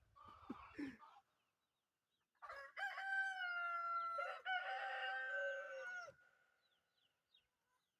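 Rooster crowing once: a long, multi-part cock-a-doodle-doo of about three and a half seconds, starting a couple of seconds in, after a moment of brief clucking.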